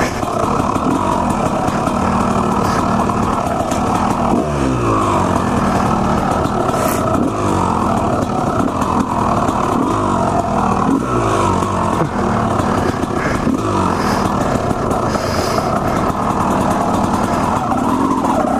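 Two-stroke Honda CR250R dirt bike engine running under load while riding off-road, its pitch rising and falling with the throttle, with clear revs about four seconds in and again around eleven to thirteen seconds.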